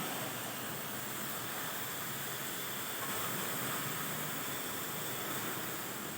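Steady hiss of an automatic plate-cutting machine's torch cutting steel plate, with a faint thin tone joining in about halfway through.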